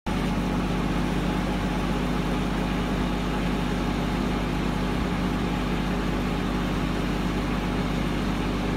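Motor vehicle engine running steadily, a constant low hum with even noise over it.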